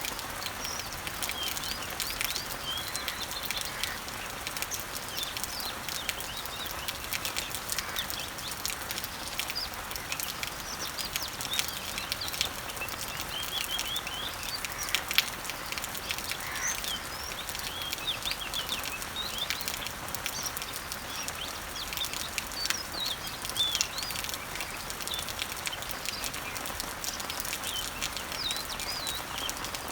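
Rain falling on garden leaves and trees, a steady hiss with many small drop ticks, while birds chirp again and again in the background.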